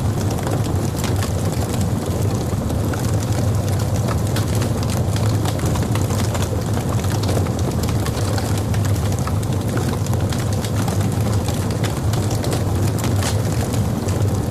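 Wood logs burning in a fireplace: a steady low rumble of the flames with many small, irregular crackles and pops throughout.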